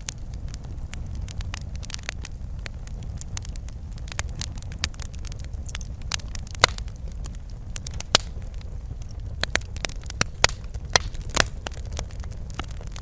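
Wood fire burning in a fireplace: a steady low rumble of flames with irregular sharp crackles and pops, which come thicker and louder in the second half.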